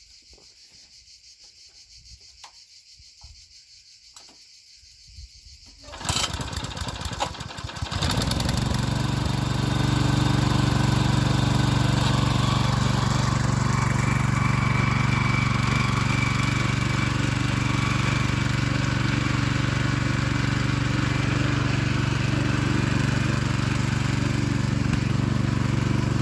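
Small engine of a walk-behind tiller starting up about six seconds in, rough for a couple of seconds, then running steadily. Before it starts, insects chirr faintly.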